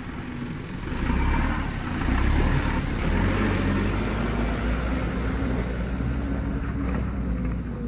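Heavy truck engine running hard under load, getting louder about a second in and again a second later, then holding a steady low drone.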